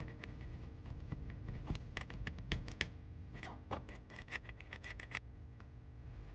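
Quick scratching and clicking strokes on a miniature die-cast model car as it is being cleaned by hand. The strokes come in two dense runs and stop a little after five seconds in.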